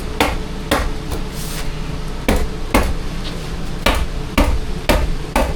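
Staple gun driving staples into a floor underlay: eight sharp strikes in pairs about half a second apart, each pair a couple of seconds from the next, over a steady low hum.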